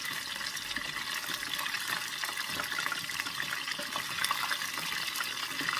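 Cornstarch-coated chicken wings deep-frying in hot oil: a steady, dense crackling sizzle full of tiny pops. The wings are still cooking, the skin in the middle of crisping up.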